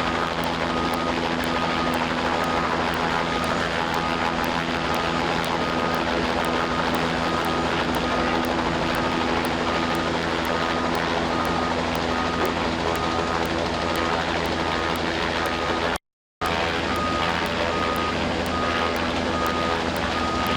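Heavy engine of an aerial ladder fire truck running steadily while the ladder is worked, over a constant rushing noise, with a high electronic warning beep repeating rapidly. The sound cuts out briefly about 16 seconds in.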